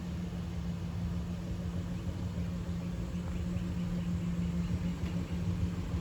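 Pickup truck engine idling: a steady low rumble with a constant hum.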